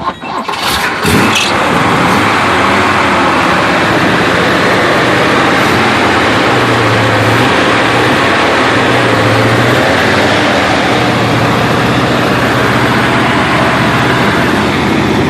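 A 1968 GMC half-ton pickup's rebuilt 327 small-block Chevy V8, fitted with 350 heads, is cold-started on the choke. It cranks and catches about a second in, then keeps running steadily.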